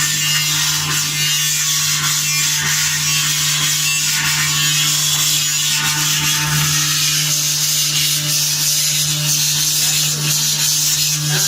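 CNC engraving machine running: a steady spindle hum with a constant high hiss of the cutter engraving a silver plate.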